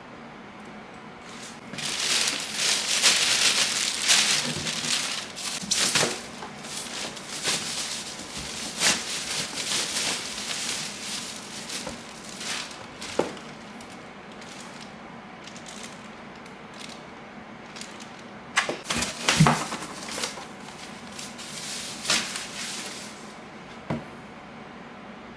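Packaging being handled: crinkling, rustling plastic and cardboard with scattered sharp clicks and knocks, in irregular bursts that are heaviest in the first few seconds and again near the end.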